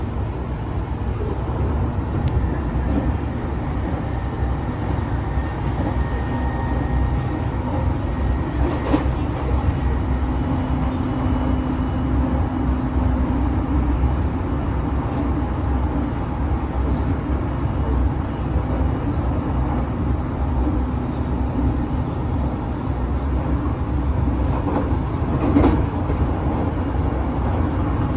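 JR Tohoku Main Line train running: a steady low rumble with a faint hum and occasional short clicks from the wheels on the track.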